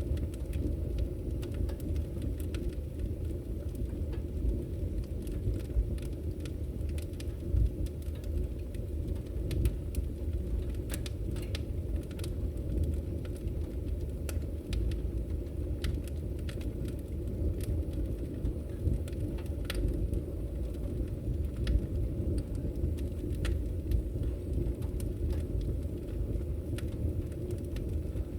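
Wood logs burning in a fireplace: a steady low rumble of the fire with frequent, irregular sharp crackles and pops.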